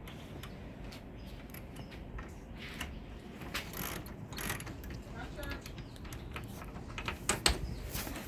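Hand ratchet wrench clicking in short, irregular runs as bolts on a car's rear shock absorber are worked, with a few sharper clicks of metal tools near the end.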